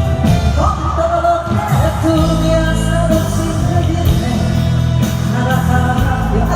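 Live band playing a romantic pop ballad, with a melody line holding long notes over a steady bass; the melody slides up to a higher held note about half a second in.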